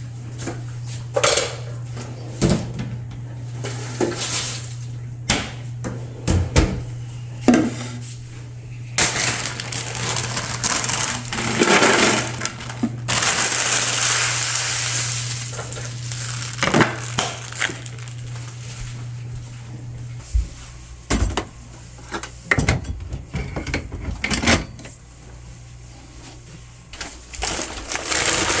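Groceries being unpacked and put away, played as restock ASMR: plastic packaging crinkling and rustling, with many short knocks and clicks of containers being set down. A steady low hum runs underneath and stops about twenty seconds in.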